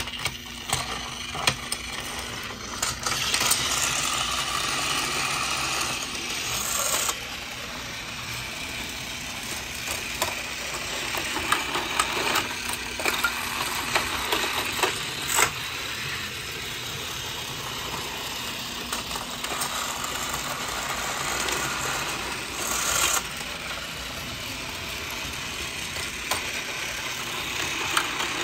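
Battery-powered Trackmaster toy engines running on plastic track: a steady small-motor whir with plastic rattling and frequent clicks, and a few louder clattering spells.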